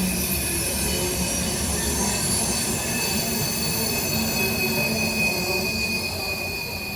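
Train rolling past, its wheels squealing in steady high tones over a continuous low rumble; the sound eases off slightly near the end.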